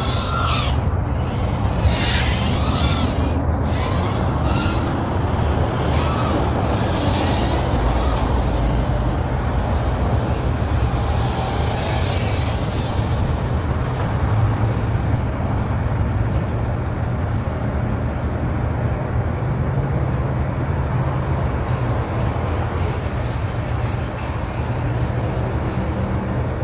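Strong wind buffeting the microphone: a loud, steady low rumble. In the first few seconds a faint whine rises and falls above it, the motors of a small FPV quadcopter.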